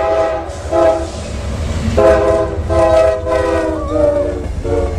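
An Amtrak diesel locomotive's air horn sounds a chord in a string of about five blasts, most of them short, as the train approaches the crossing. A low steady rumble from the train runs beneath the blasts.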